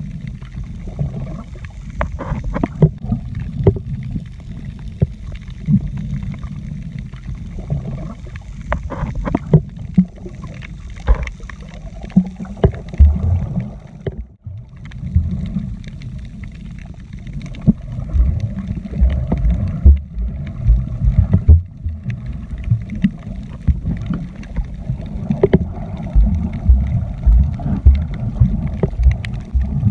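Muffled sloshing water with a dense low rumble and irregular knocks and thumps throughout.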